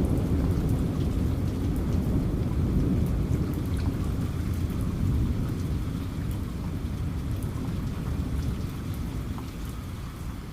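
Steady rain falling with scattered drop ticks, under a low rumble of thunder that slowly fades away.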